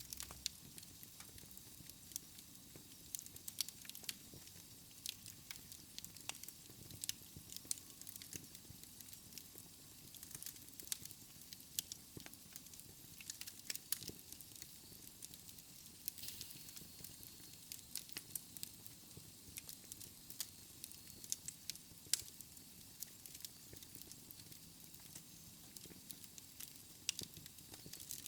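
Wood fire in a fireplace crackling, with many irregular sharp pops and snaps over a soft hiss of flames.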